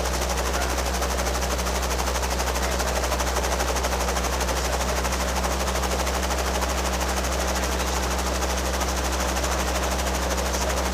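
Robinson R22 helicopter's carbureted piston engine and rotor running steadily, with a loud, rapid, even pulsing and a low steady drone.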